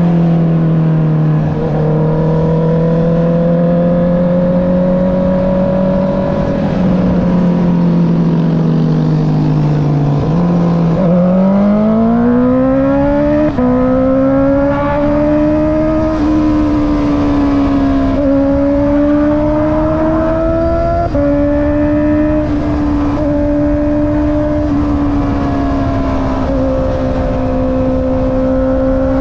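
Honda CB650R's inline-four engine through an Akrapovic exhaust, running at a steady pitch, then rising about ten seconds in as the bike accelerates. It then holds at a higher pitch, with several small steps and dips that fit gear changes.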